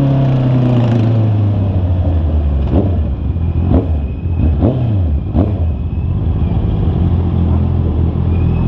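Honda CB650R's inline-four engine, its note falling as the revs drop, then four quick throttle blips about a second apart before it settles to a low, steady note.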